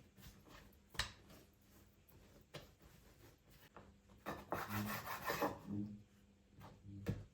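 Handling sounds: a few sharp clicks and knocks, with a stretch of rubbing on a hard surface in the middle.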